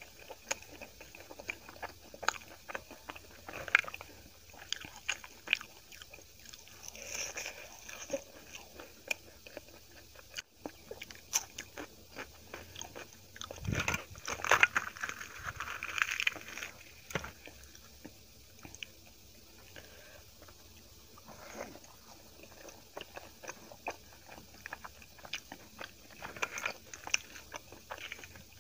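Close-miked eating: a person chewing and biting poori and rice with curry, with many short wet mouth clicks and smacks. About halfway through there is a louder stretch of a few seconds as a poori is torn by hand.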